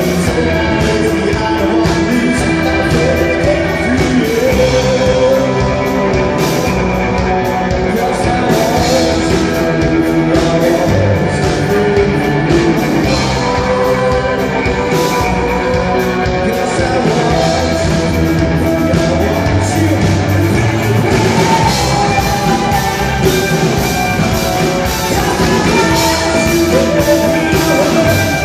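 Loud rock song with guitars, drums and a singing voice.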